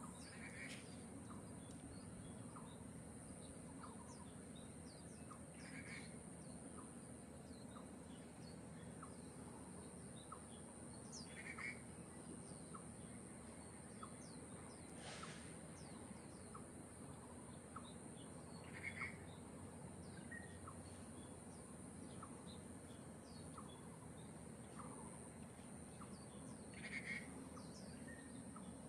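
Faint outdoor ambience: small birds chirping now and then, one call recurring every several seconds, over a steady high-pitched hiss.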